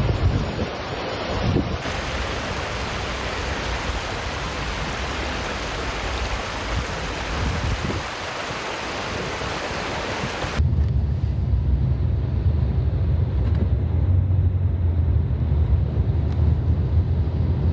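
Storm noise: a steady rushing of wind and water, changing with each cut, then from about ten seconds in a heavy low rumble of strong wind buffeting the microphone.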